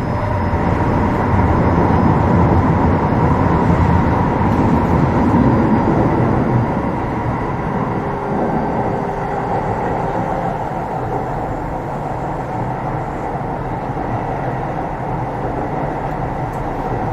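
Keio 7000 series electric train running between stations, heard from inside the passenger car: a steady rumble of wheels on rail and motor noise with faint steady tones. It is a little louder for the first six seconds or so, then eases slightly.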